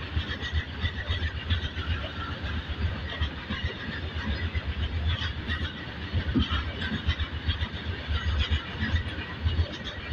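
Loaded open-top coal wagons of a freight train rolling past at close range: a continuous rumble of steel wheels on rail, with frequent short knocks and rattles from the wagons and rail joints.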